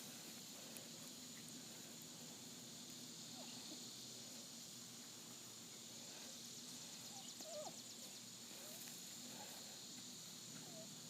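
Near silence: a faint steady high hiss, with a brief faint squeak about seven and a half seconds in.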